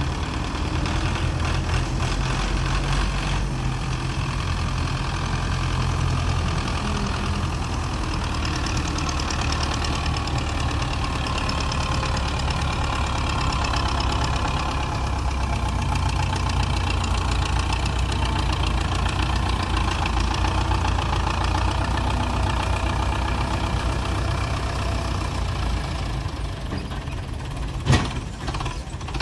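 Belarus tractor's diesel engine running steadily, with one sharp bang near the end.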